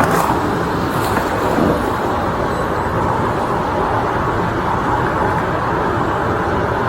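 Steady vehicle noise, an even rumble and hiss, with a couple of light clicks in the first second or so.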